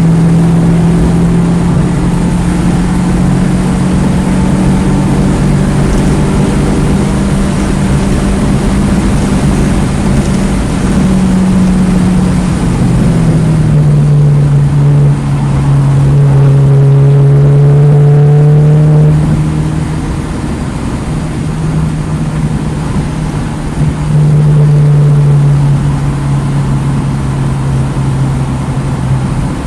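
2009 Mini Cooper S's turbocharged 1.6-litre four-cylinder engine under hard track driving, its pitch dropping with a gear change about 13 seconds in. The engine note goes quieter for a few seconds near the two-thirds mark as the throttle lifts, then comes back on power.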